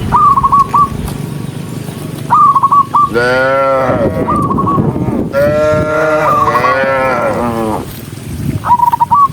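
Cattle mooing: one drawn-out moo about three seconds in, then another longer one through the middle. Between them, short high chirping calls repeat every couple of seconds.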